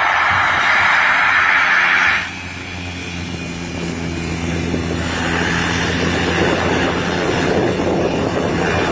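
A propeller plane's engine running. A loud rushing noise of air and engine stops abruptly about two seconds in; after that the engine gives a steady hum with rushing air growing louder midway.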